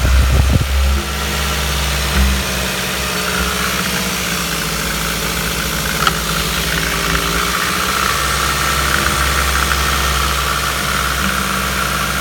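Ford Focus 1.8i EYDC four-cylinder petrol engine idling steadily, with a steady high whine over the engine note. A few low thumps in the first second and a single sharp click about six seconds in.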